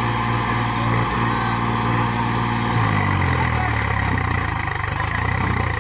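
Swaraj tractor's diesel engine running steadily, its pitch dropping about halfway through as the revs fall.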